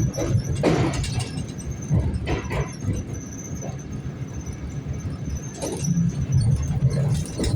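ED4M electric train running, heard from on board: a steady low rumble with a thin high squeal held throughout and several sharp clanks a second or so apart.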